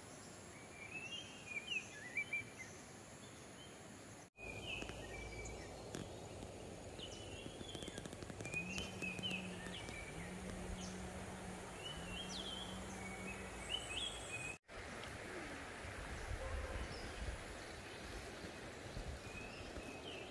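Rural outdoor ambience with birds chirping in short repeated calls throughout, over a steady background hiss. The sound cuts out abruptly twice, about four and fifteen seconds in. A low steady hum comes in three short stretches near the middle.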